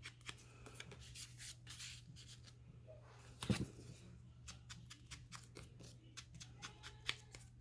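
Hands handling paper and craft supplies on a work table: light rustling and small taps and clicks, with one louder thump about halfway through and a sharp click near the end, over a faint steady hum.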